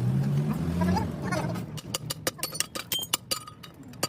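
A low hum for about the first second, then a quick run of sharp taps, several a second, some ringing briefly: a hammer striking metal, as in riveting a sprocket.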